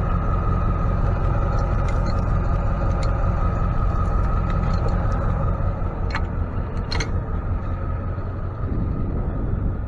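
Ford F-550 tow truck on the move: a steady engine and road rumble with a constant whine above it, and two sharp clicks a little past halfway.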